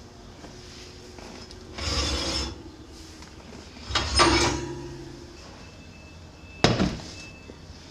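Kitchen handling noises: a scrape about two seconds in, a louder scrape with a brief metallic ring about four seconds in, and a sharp knock near the end.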